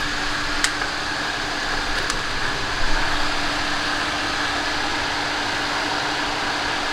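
Steady mechanical whirring hum with a constant tone, like a running fan or air-conditioning unit, with a few faint clicks from hand work.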